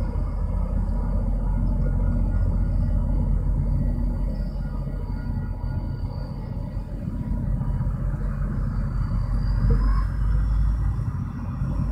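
MBTA commuter train departing over the road crossing: a steady low rumble.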